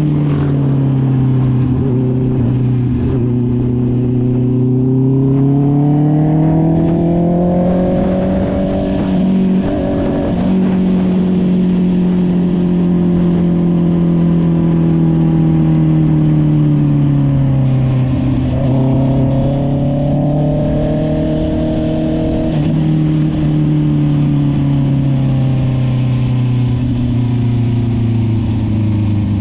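Honda CB650R's inline-four engine through an SC Project aftermarket exhaust, running under way as the rider accelerates and eases off, its note rising and falling slowly several times, with a brief break about ten seconds in.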